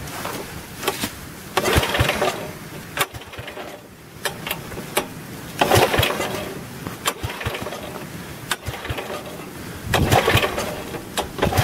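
8-horsepower Kohler engine on a homemade tractor being cranked in three short bursts without catching, because the kill switch is still in the off position.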